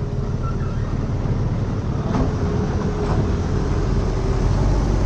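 Heavy diesel machinery running steadily with a deep, even rumble, a backhoe loader and tractors at work, with a faint steady whine coming in about two seconds in and a couple of faint knocks.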